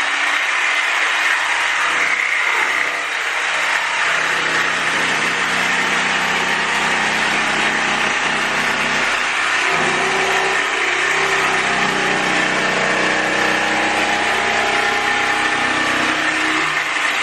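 Electric saw running steadily, cutting the edge off a cork flooring plank.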